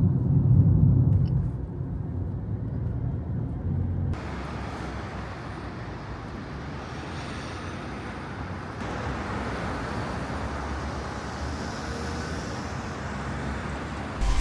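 Car and road traffic noise: a low rumble for about four seconds, then an abrupt cut to a steadier, hissier road noise.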